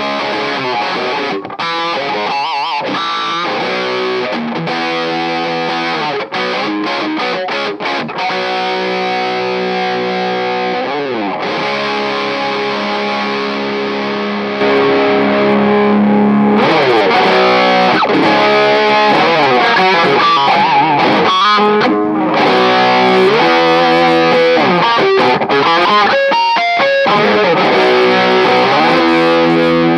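Distorted electric guitar playing sustained chords and riffs through a miniature valve power amp (an EF95 pentode stage with Class D output). The playing gets louder about halfway through.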